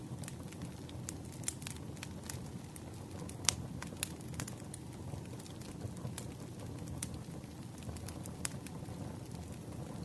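Wood fire crackling: a steady low rumble of flames with scattered sharp pops and snaps, the loudest pair about three and a half and four seconds in.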